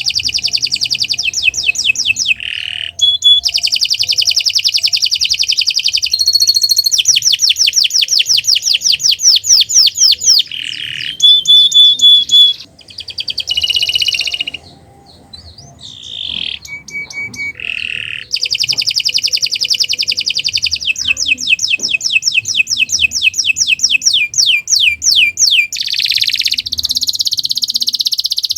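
Domestic canary singing loudly in long trills of rapid repeated notes, the phrases changing pitch and speed from one roll to the next. There is a short quiet break about halfway.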